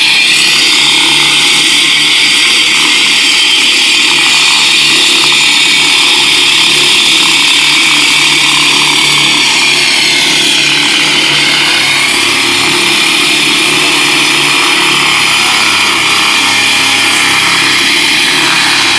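Concrete cutting saw running loud and steady, its blade grinding through a K300-grade concrete road slab, dipping slightly in pitch about ten seconds in.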